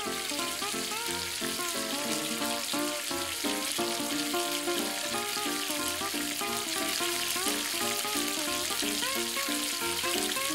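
Hot oil sizzling steadily as chicken nuggets fry, under background music with a quick melody.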